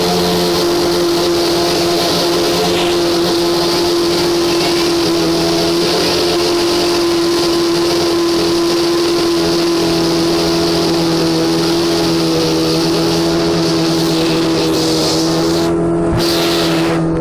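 McLaren Honda MP4/6's 3.5-litre Honda V12 Formula 1 engine running steadily, held at one constant engine speed rather than revving.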